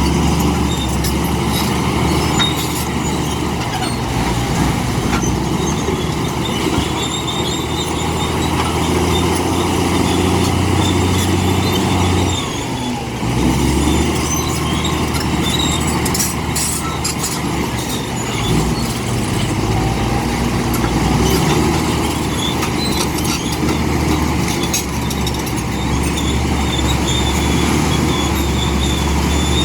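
Komatsu D65P bulldozer's diesel engine running under load as it pushes and spreads dumped rock, the engine note dropping briefly about twelve seconds in, with scattered clanks and rattles of track and stone, most around the middle.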